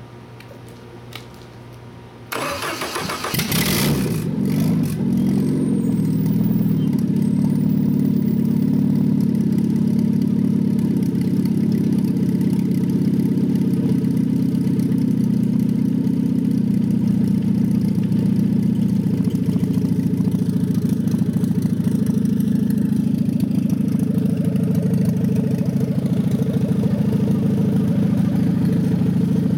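A newly built 2.8-litre EFI gasoline four-cylinder engine, an industrial version of the Jeep 2.5, starting for the first time. It cranks and catches about two seconds in, then settles into a steady idle.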